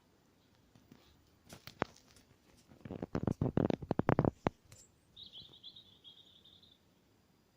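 A quick run of loud, sharp clicks and knocks lasting about a second and a half, followed a moment later by a small bird's buzzy high trill of about a second and a half.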